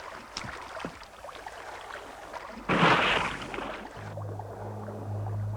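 Water sloshing and crackling around a small boat, with a loud splash about three seconds in; a low, steady droning music note comes in near the end.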